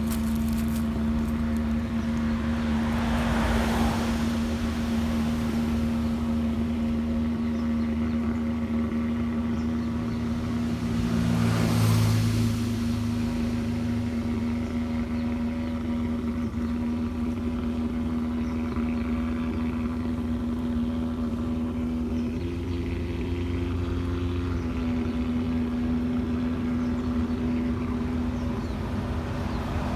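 A steady engine hum runs throughout, with vehicles passing by about three seconds in and again around twelve seconds, and another approaching near the end.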